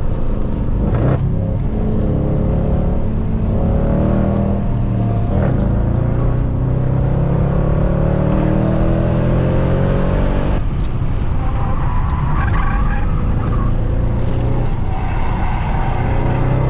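Mercedes C63 AMG's 6.2-litre V8, run without secondary cats or resonators, pulling hard under acceleration. Its note climbs in pitch through each gear, with sharp breaks at upshifts about five and eleven seconds in.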